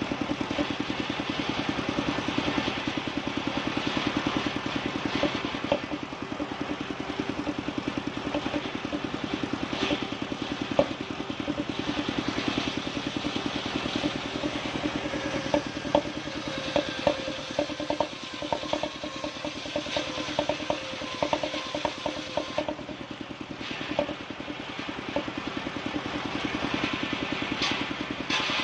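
Engine of a wood-sawing machine running steadily with an even beat, with a run of light knocks and clicks about two-thirds of the way through.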